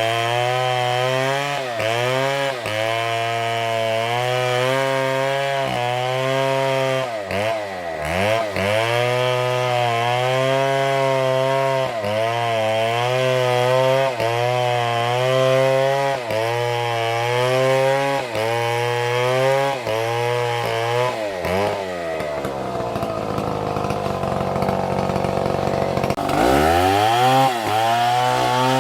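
Chainsaw cutting through a palm trunk at high revs, its pitch dipping and recovering again and again as the chain takes load. About 22 seconds in it drops to a low idle, then revs back up near the end.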